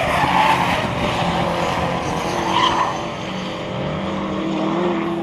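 Rally car engine running hard at high revs while its tyres squeal and skid on tarmac, as in a spinning donut; the engine settles into a steadier, lower note in the second half.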